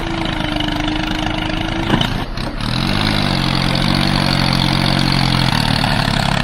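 Small engine of a miniature tractor or bulldozer running steadily, its pitch rising and settling about three seconds in.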